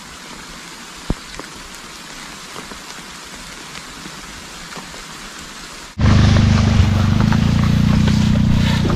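Steady rain falling on pond water and grass, an even hiss with one small click about a second in. About six seconds in the sound cuts abruptly to a much louder low rumbling noise.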